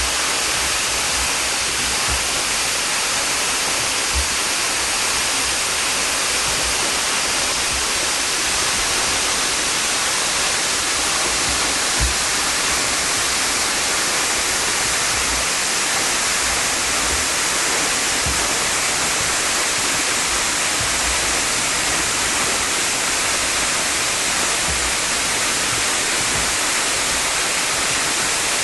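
Partly frozen waterfall: a steady, even rush of falling water, with a few low thumps, the clearest about 4 and 12 seconds in.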